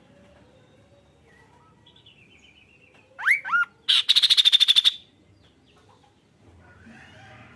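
Kaso-kaso bird singing: two loud rising whistled notes a little after three seconds in, then a fast loud trill lasting about a second, with faint softer notes before and after.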